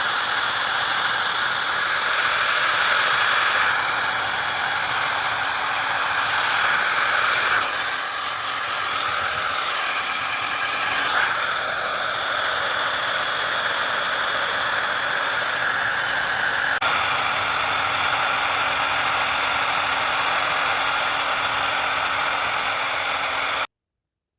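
Handheld hairdryer running, a steady blowing whir with its airflow shifting slightly now and then, then stopping abruptly near the end.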